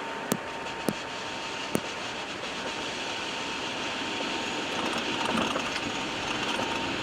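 Steady rushing noise in an Airbus A319's cockpit during the landing roll, with three sharp clicks in the first two seconds. A faint steady tone sits under the noise and stops just before the end, and the noise grows slightly louder from about halfway.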